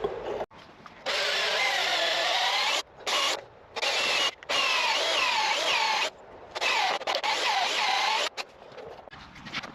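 Electric drill running in several bursts with short stops between them, its motor pitch wavering up and down as the speed changes.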